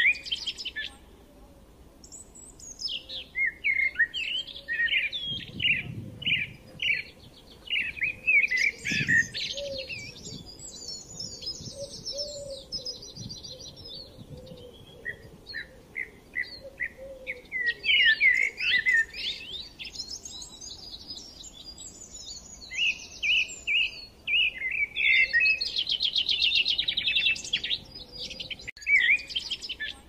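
Several birds singing, with chirps and rapid trills in overlapping phrases separated by short pauses.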